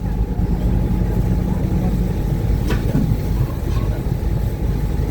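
Uber Boat river catamaran's engines running steadily under way, a constant low drone over a rushing noise.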